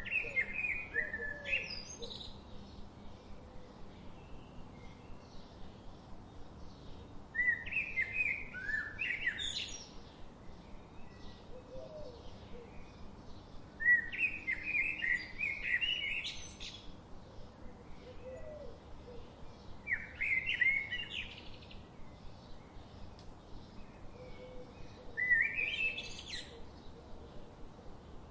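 A songbird sings the same short, bright phrase five times, about every six seconds; each phrase lasts about two seconds and ends in a rising flourish. Faint, quick, regular chirping from other birds fills the gaps.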